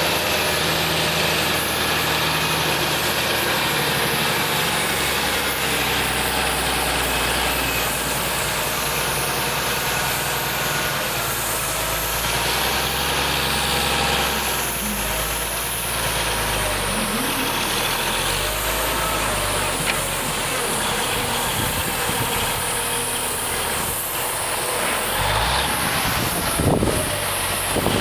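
1969 Peterbilt tandem-axle truck's diesel engine running steadily at idle, its speed shifting a little now and then. A few short knocks near the end.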